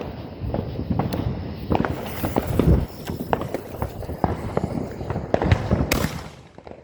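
Fireworks going off: a rapid, irregular run of sharp pops and cracks, with a louder burst about six seconds in.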